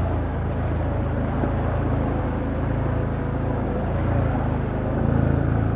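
Can-Am Outlander ATV engine running steadily on the trail, swelling slightly about five seconds in.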